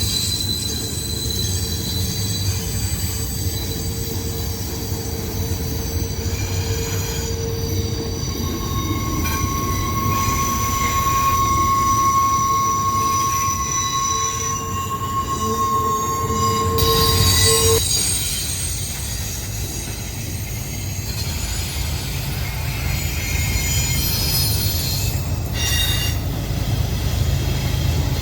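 Freight train cars rolling past with their steel wheels squealing over a steady low rumble. Several shrill squeal tones come and go; the strongest holds from about a third of the way in until a little past the middle, then cuts off.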